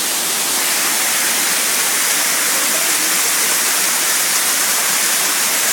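Small waterfall and rapids heard close up: a steady, even rush of falling and churning water.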